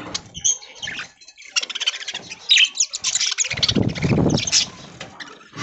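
A flock of budgerigars chattering with rapid, high chirps, and a louder, lower rustle about two thirds of the way through.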